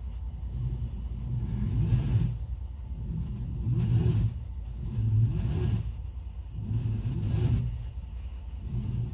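A car engine revving over and over, each rev rising and falling about every second and a half over a steady low rumble.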